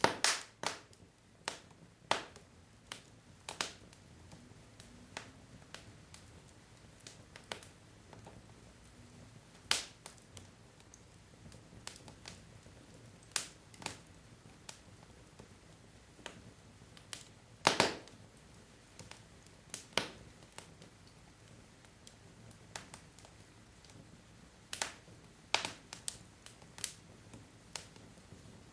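Wood fire crackling: burning logs giving off sharp, irregular pops and snaps at uneven intervals, a few louder ones standing out, over a faint steady hiss.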